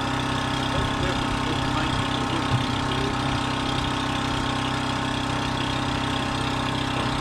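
An engine idling steadily, a constant even drone, with one small knock about two and a half seconds in.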